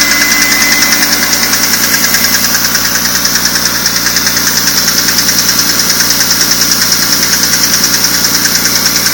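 BMW E46 M3's S54 straight-six engine running steadily at idle, with a rapid, even ticking over the engine sound.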